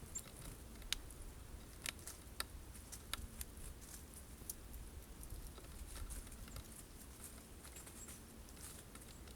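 Birds pecking and tapping at sunflower seeds on a wooden feeder: sharp, irregular clicks, thickest in the first few seconds and then sparser.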